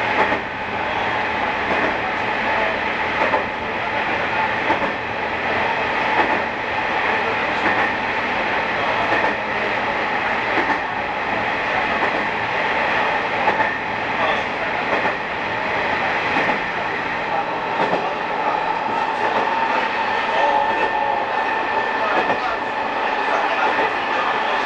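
Sanriku Railway diesel railcar running at speed through a tunnel: a loud, steady rumble of wheels on rail and engine, with a steady tone and a few irregular rail clicks.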